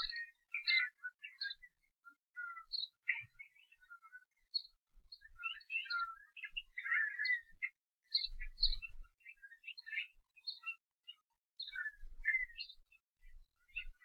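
Small bird chirping and twittering in many quick, irregular short notes, with brief pauses between runs.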